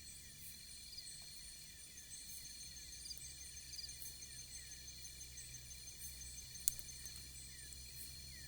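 Faint chorus of insects, steady high trilling with fast repeating chirps, and one sharp click about two-thirds of the way in.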